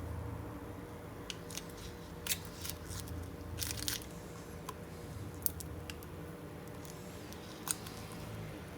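Scattered small clicks and a few short scrapes from hand work on a laptop LCD panel during polarizer film replacement, over a steady low hum.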